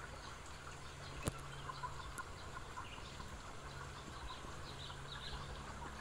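Faint, scattered bird chirps over a steady low hum, with a single sharp click a little over a second in.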